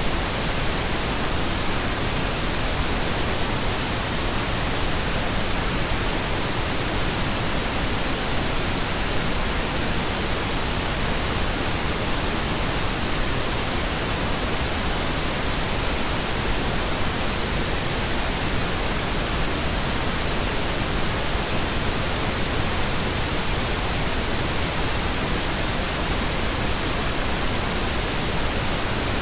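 Steady pink noise: an even, unchanging hiss spread across the whole range, with more weight in the lows than white noise.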